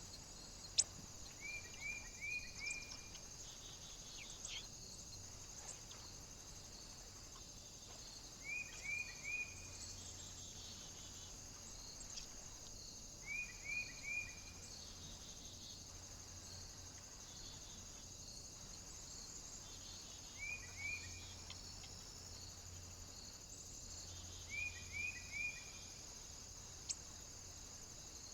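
A small bird calling in five short bursts of three or four quick downslurred notes, over a steady high hiss. A sharp click about a second in and another near the end.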